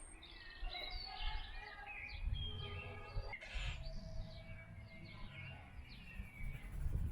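Several small birds chirping and calling at once: many short chirps, rising and falling whistles and a few held notes, over a low rumble.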